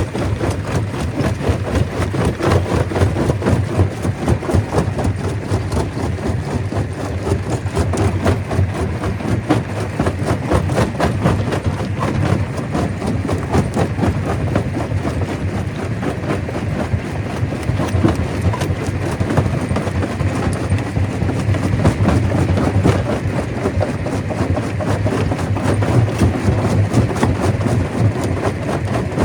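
Stone crusher running under load, a steady engine-driven drone with a constant rattle and clatter of rocks being crushed.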